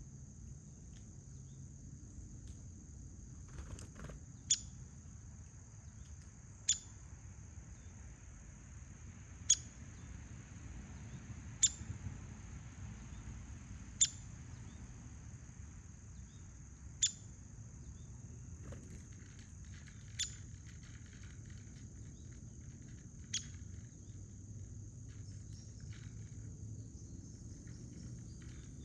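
Crickets trilling in a steady, high-pitched chorus. A short, sharp chip call sounds about every two to three seconds, nine times, over a low, steady outdoor rumble.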